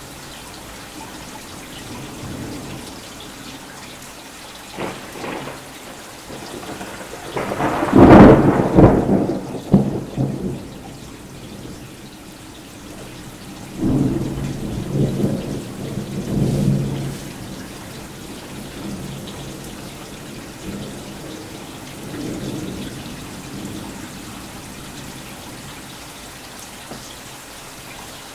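Thunderstorm with steady rain falling throughout and thunder from close lightning: a loud crash about a quarter of the way in that rumbles on for a couple of seconds, a second rolling rumble about halfway through, and fainter rumbles before and after.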